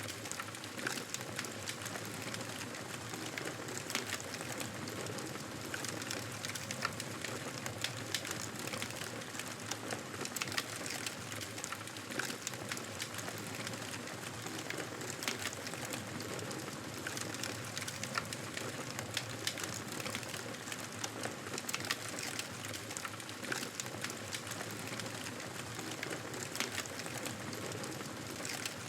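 Wood fire burning in a fireplace: a steady hiss of flames with frequent sharp crackles and pops.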